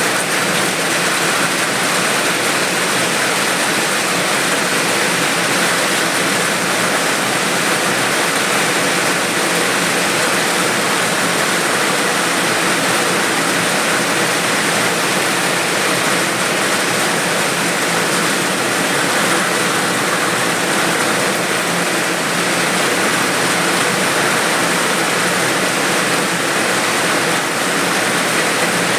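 Rain falling steadily, a dense, even hiss with no separate drops standing out.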